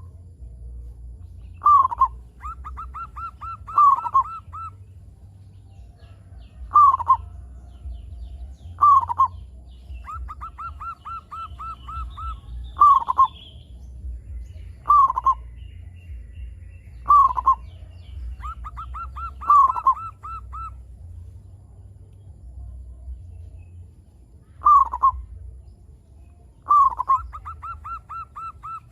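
Zebra doves (perkutut) cooing: a loud falling coo about every two to three seconds, several of them followed by a quick run of short repeated notes, over a low steady hum.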